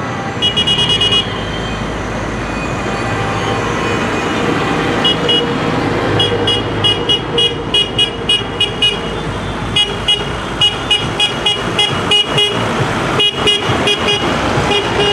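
Vehicle horn sounding in quick runs of short, high-pitched toots, about three or four a second, over the steady running of tractor engines passing in a parade.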